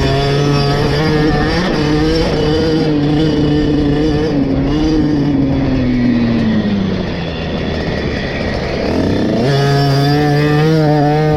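KTM SX 50's single-cylinder two-stroke engine at high revs, dropping in pitch as the throttle is rolled off about five seconds in, then revving sharply back up near the end.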